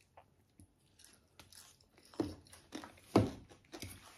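Close-up crunchy chewing and biting of singju, a raw shredded-vegetable salad with peas, eaten by hand. There are a few louder crunches about two and three seconds in.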